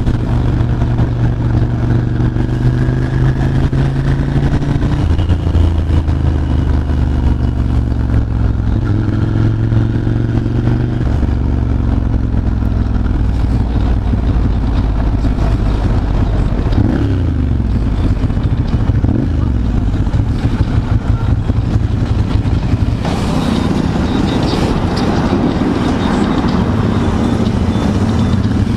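Ducati Monster 796's air-cooled L-twin engine running under way at road speed, its pitch dropping and rising in steps several times as the throttle and gears change. A broad rushing noise builds over the last few seconds.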